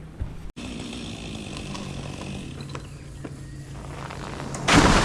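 Chainsaw idling steadily, then a short loud burst of noise about four and a half seconds in.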